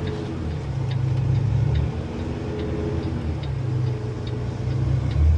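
Truck engine running while driving, heard from inside the cab, its pitch rising and falling a little. A faint, regular ticking sounds over it, about one and a half ticks a second.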